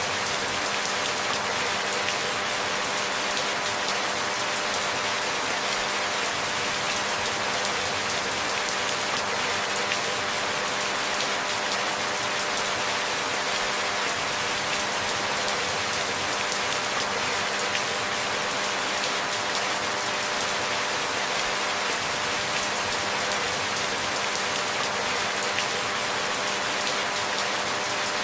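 Steady, even rain falling on a surface, a dense hiss of drops with no changes or breaks.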